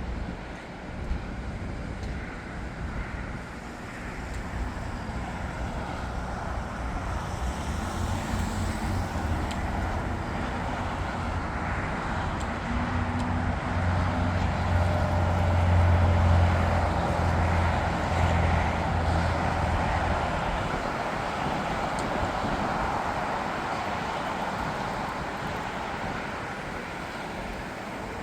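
Jet airliner's engines roaring as it passes overhead, swelling to a peak about halfway through and then fading.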